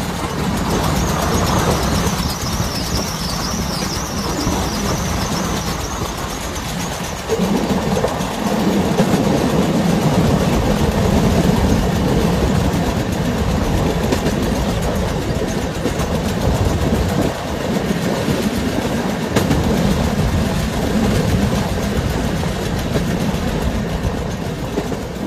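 Train running along the track, heard from on board: a steady noise of wheels on the rails that grows louder about seven seconds in.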